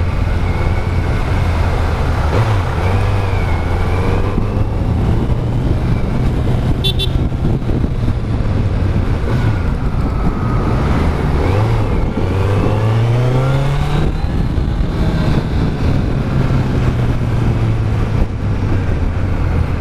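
Kawasaki Z900's inline-four engine on its stock exhaust, running under way with wind noise; about twelve seconds in the revs climb for a couple of seconds, then fall back as it shifts.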